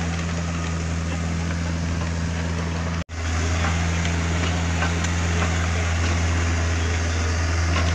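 Takeuchi TB150 mini excavator's diesel engine running steadily, with a momentary break in the sound about three seconds in.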